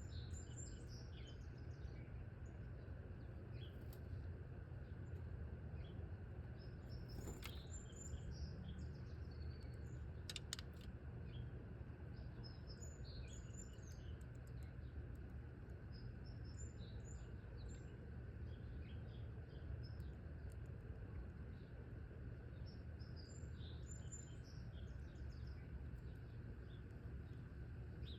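Small songbirds chirping and calling on and off, short high calls in loose clusters, over a steady low background rumble. A brief run of sharp clicks about ten seconds in.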